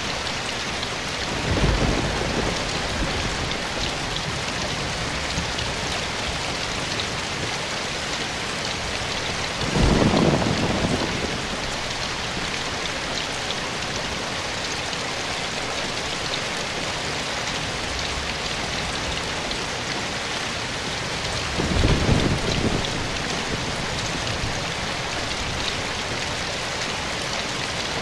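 Steady rain falling, with three brief low rumbles standing out above it: one near the start, one about ten seconds in and one about twenty-two seconds in.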